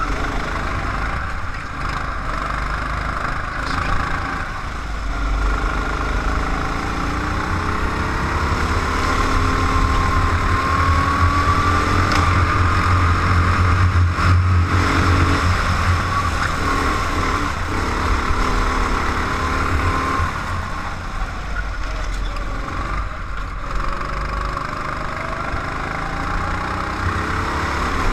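Race car engine heard onboard, its revs rising and falling as it is driven through corners and straights, over a steady rush of wind and road noise.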